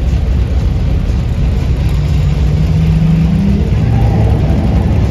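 Side-piped engine of a Cobra-style roadster running loud and low as the car rolls slowly past. Its note climbs gently for a second or so about halfway through, then drops back to a lower steady pitch.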